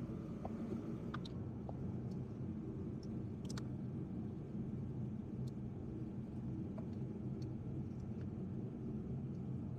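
Steady low rumble with a few faint, scattered ticks, like small tool contacts.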